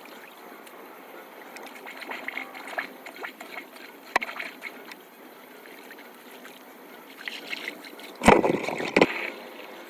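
Flood water trickling and gurgling, with scattered clicks and knocks and a sharp knock about four seconds in. Near the end, a louder noisy burst lasts just under a second.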